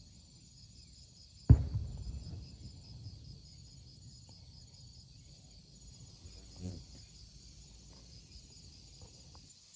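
A chorus of insects calls in a steady, evenly pulsing high trill. A sudden loud knock comes about a second and a half in, and a smaller one near the seven-second mark.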